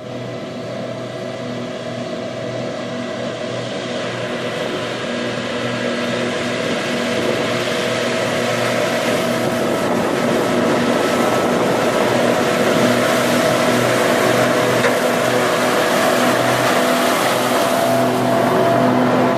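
Tractor running with a front mower-conditioner working: a steady engine drone under a broad rushing noise that grows gradually louder.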